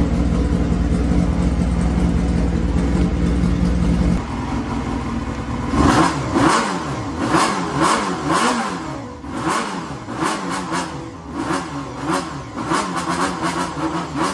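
Honda Jade 250 four-cylinder motorcycle engine idling steadily. About six seconds in, the sound changes to a pitch that repeatedly rises and falls, with sharp regular beats.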